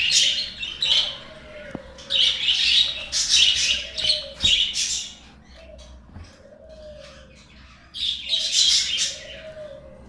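Budgerigars chattering and chirping in several bursts, with a quieter lull in the middle.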